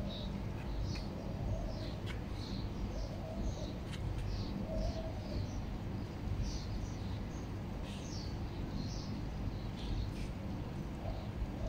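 Small birds chirping, short high chirps repeated every second or so, over a steady low background rumble.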